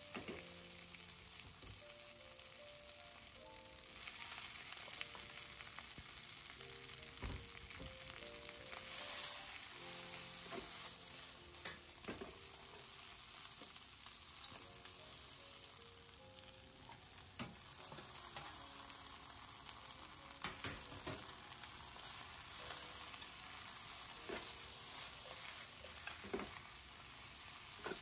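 Water spinach, garlic and corn sizzling in a frying pan while being stir-fried with wooden chopsticks. The sizzle grows louder about four seconds in, and a few sharp knocks of the chopsticks against the pan come through it.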